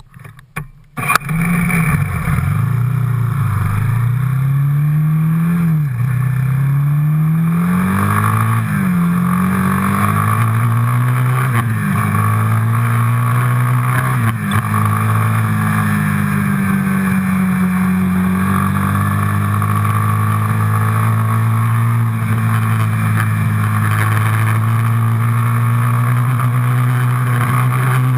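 Quad bike engine accelerating up through the gears. Its pitch climbs and drops back at each of four gear changes, then holds steady at cruising speed.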